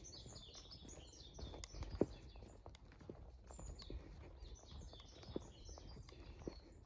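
Small birds chirping and twittering outdoors, with a scattering of sharp knocks; the loudest knock comes about two seconds in.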